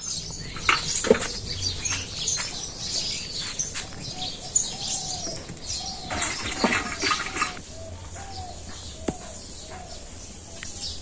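Birds chirping and calling, with one short call repeated about twice a second through the second half, over scattered clicks and rustling.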